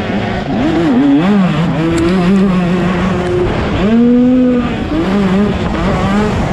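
Motocross bike engines revving hard, their pitch repeatedly rising and falling, with a sharp rise about four seconds in.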